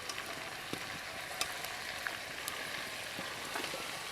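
Masala-coated whole chicken frying in oil in a pan: a steady, quiet sizzle with a few faint clicks.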